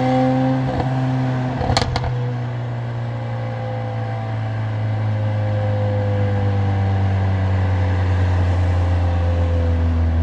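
Mercedes-AMG CLA45's turbocharged 2.0-litre four-cylinder and its loud exhaust, cruising with a steady drone that grows a little louder in the second half. About two seconds in there are two short, sharp cracks.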